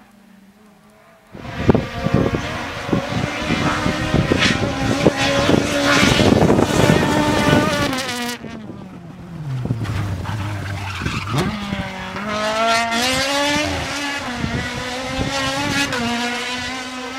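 Race car engine at full throttle, cutting in suddenly about a second in, its pitch climbing and stepping through gear changes. About eight seconds in it lifts off and the pitch falls, then it picks up and climbs through the gears again.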